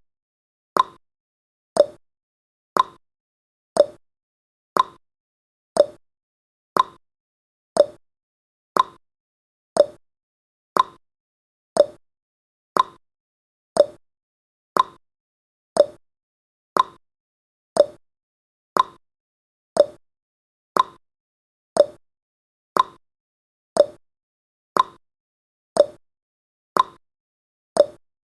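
Countdown timer's clock-tick sound effect, one short sharp tick about every second, marking off the seconds.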